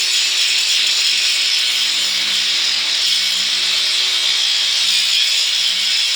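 Angle grinder with a hard grinding disc running steadily against cast iron, a loud continuous high-pitched grinding.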